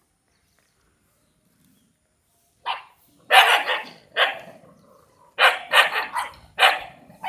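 A dog barking: nothing for the first couple of seconds, then a string of about seven sharp barks, the later ones coming in quick succession.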